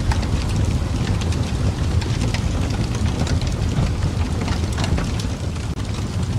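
Wood fire crackling in a fireplace: a steady low rumble with frequent small pops and snaps.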